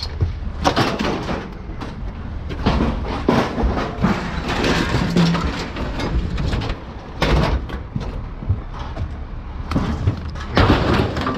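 Scrap metal being thrown out onto a scrapyard pile: a run of irregular clanks, bangs and thuds of metal landing on metal.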